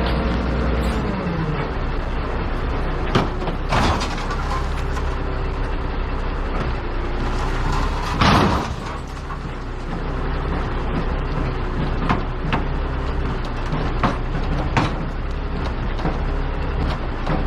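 Heavy truck's engine running, its note dropping about a second in and then holding steady. Scattered knocks and rattles come through, with a short rushing burst of air about eight seconds in.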